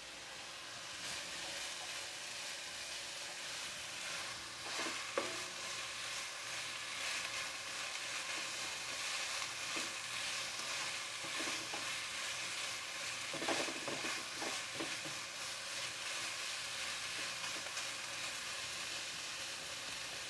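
Chopped onion, ginger and garlic sizzling steadily in oil in a nonstick wok. A spatula stirs and scrapes across the pan, with the loudest scrapes about five seconds in and again around thirteen seconds in.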